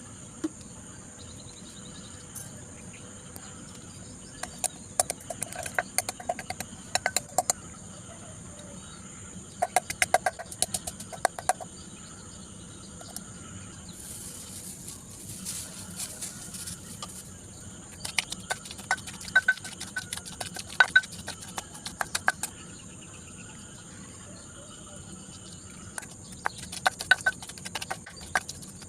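Steady high-pitched insect chirring, with several bursts of rapid clicking and knocking and a short hissing stretch in the middle.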